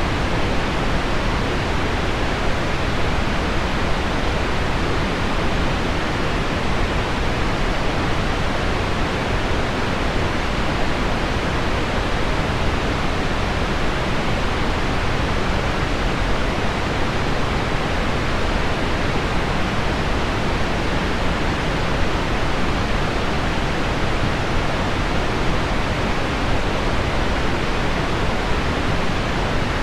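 Heavy rain on window glass blended with low-pitched pink noise: a steady, even hiss that does not change.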